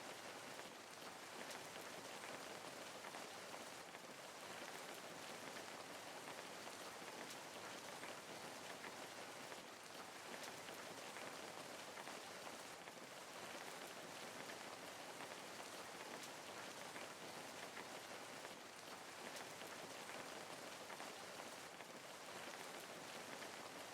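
Steady rain falling and pattering on a surface, an even hiss with fine crackling drops.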